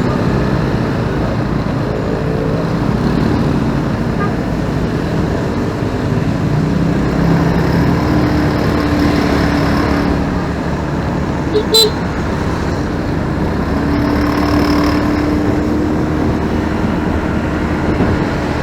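Steady road traffic and engine noise heard from a moving motorcycle, with a low steady hum coming and going. One short, sharp sound stands out about twelve seconds in.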